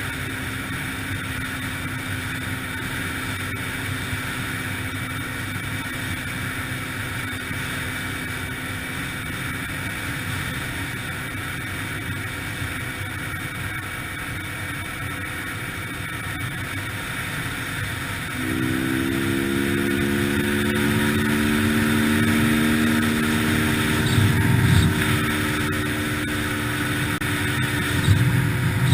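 Yamaha TTR-125LE dirt bike's single-cylinder four-stroke engine running steadily under way, with a constant hiss of wind and motion. About two-thirds of the way through the throttle opens: the engine gets louder and its note climbs slightly. Two low thumps follow near the end.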